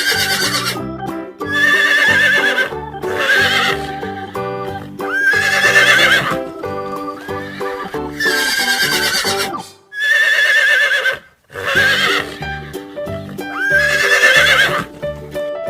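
Horse whinnying again and again, about seven long, quavering neighs, over background music.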